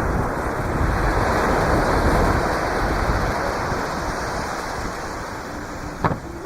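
Surf washing up on the beach: a breaking wave's rush swells over the first two seconds and slowly fades. A single sharp firework bang about six seconds in.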